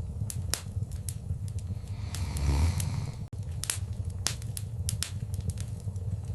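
Wood fire crackling, with irregular sharp pops and snaps over a steady low rumble of the flames. A louder low surge comes about two and a half seconds in.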